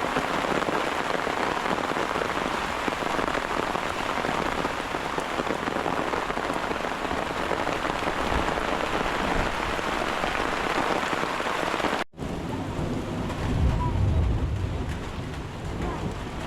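Rain falling steadily. After a short break about twelve seconds in, the rain is softer, with a low rumble.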